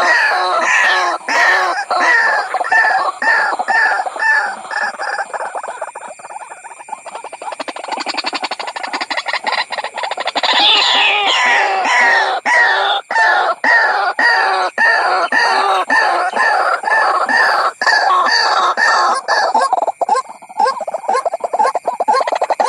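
White-breasted waterhen calls played as a trapping lure: a fast, unbroken run of repeated pitched notes, about three a second. The run grows quieter near the middle, then builds back up, with sharp clicks scattered through it.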